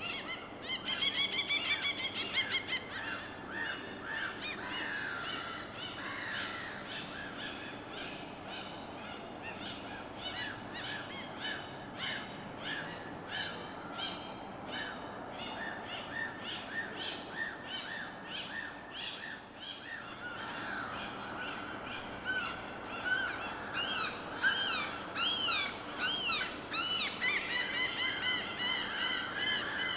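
Many birds calling together over a steady low background wash. There is a loud, rapid rattling call about a second in, then continuous short repeated chirps. Loud, arching calls come in about two-thirds of the way through.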